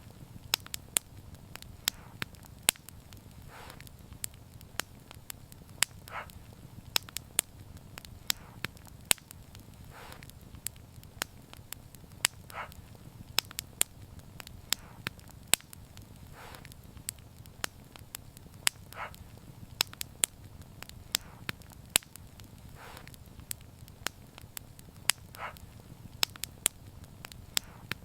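Wood fire burning, with irregular sharp crackles and pops over a soft low rumble. Brief faint hisses come every few seconds.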